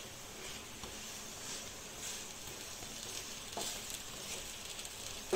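Besan chilla sizzling in oil on its second side in a nonstick frying pan, while a spatula presses and scrapes it against the pan. There is a short knock at the very end.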